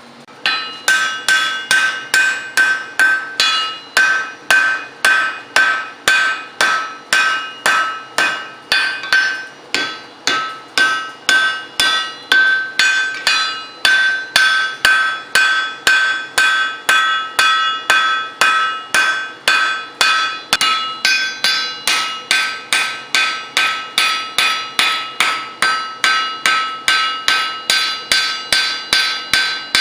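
Blacksmith's hammer striking steel on an anvil in a steady rhythm, about two to three blows a second, starting about half a second in. Each blow rings with a clear metallic tone as the steel is forged.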